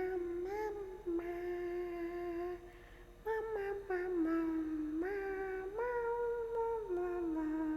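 A young woman's wordless humming while drinking: long held notes with a short break about three seconds in, the pitch stepping up, then sliding back down near the end.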